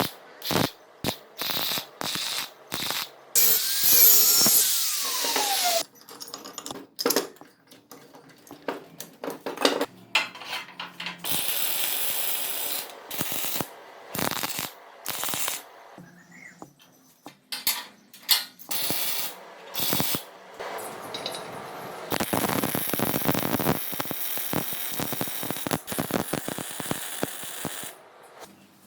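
Workshop tool sounds in quick cuts: many sharp clicks and metal knocks, short bursts of a power tool with a falling whine about four seconds in, and a steady rushing noise for several seconds near the end.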